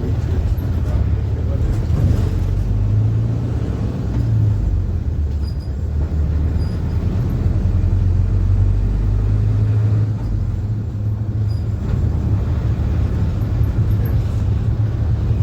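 Interior drone of a PAZ-4234-05 bus's diesel engine and drivetrain while the bus drives along, a steady low hum. The engine note eases about ten seconds in, then picks up again.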